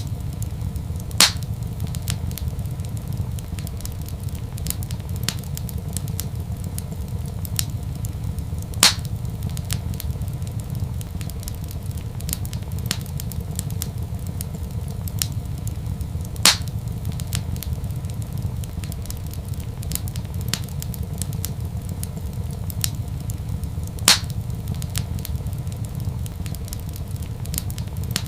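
Wood fire in a fireplace crackling over a steady low rumble, with small crackles throughout and four louder pops, evenly spaced about seven to eight seconds apart.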